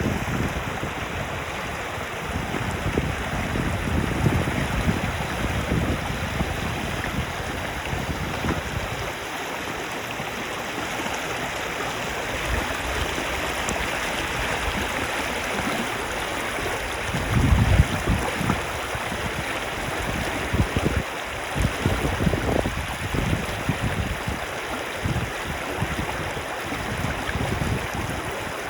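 River water rushing steadily, with strong wind buffeting the microphone in gusts, heaviest in the first several seconds and again in short blasts later on.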